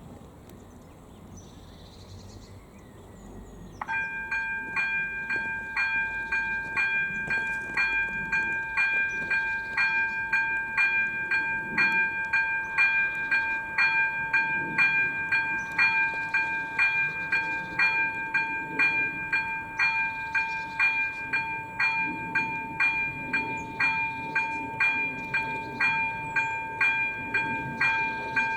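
Level-crossing electronic warning bell (AŽD ZV02) switching on about four seconds in and ringing in a steady run of evenly spaced dings, the signal that the crossing has been activated for an approaching train.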